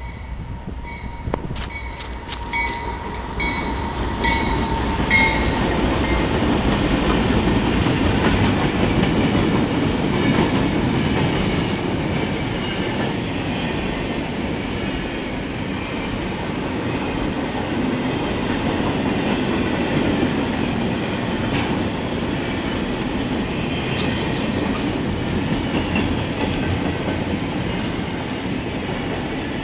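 Freight train of intermodal well cars rolling through the crossing: a steady rumble with wheel clatter on the rails, which swells about four seconds in and then holds. At the start the crossing's Safetran Type 3 electronic bell is striking at an even beat, and it is soon covered by the train.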